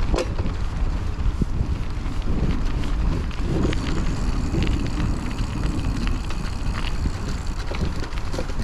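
Wind buffeting the microphone of a chest-mounted action camera on a moving bicycle, a steady low rumble, with scattered short clicks and rattles from the Raleigh Trailblazer T6 hardtail riding over the trail.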